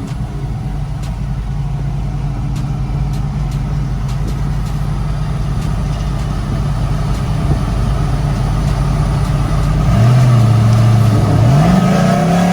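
A vehicle engine idling steadily. About ten seconds in, its pitch drops and then rises near the end as it revs up.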